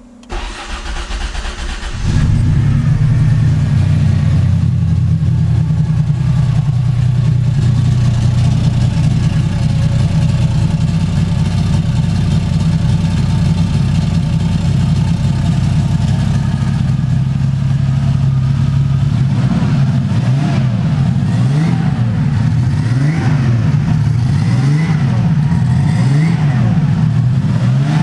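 Porsche 934's air-cooled flat-six cold-starting: it cranks for about two seconds, catches and runs steadily, then from about two-thirds of the way through it is revved in a series of short rising-and-falling throttle blips.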